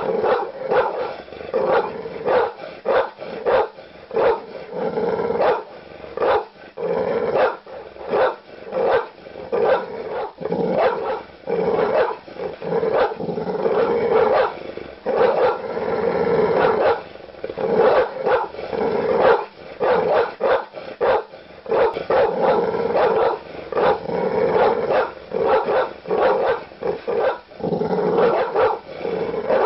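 Large dogs barking aggressively with deep, loud barks in rapid, near-continuous volleys.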